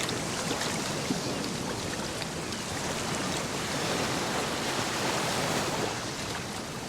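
Ocean surf: waves washing in and out as a steady rushing noise, swelling slightly now and then.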